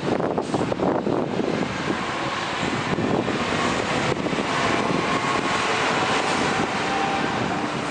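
Steady rumble of a heavy truck's diesel engine and tyres in passing traffic, with a faint whine in the middle.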